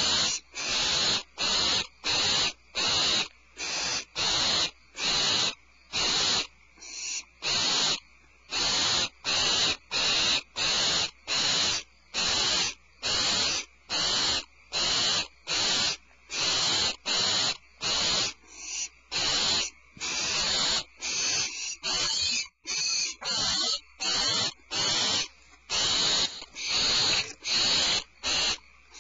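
Barn owl hissing calls: a long, steady series of short, harsh rasps, repeated nearly twice a second.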